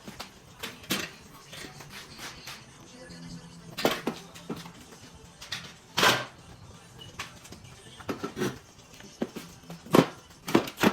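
Irregular metallic clanks and knocks of tools and parts being handled in a workshop, the loudest about six seconds in and again near the end.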